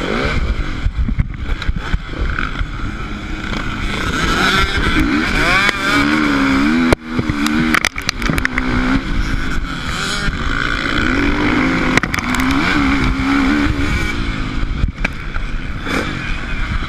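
Motocross motorcycle engine running and revving up and down, its pitch wavering, over heavy wind rumble on a helmet or bike-mounted action camera's microphone. There is a brief sudden dip in level about seven seconds in.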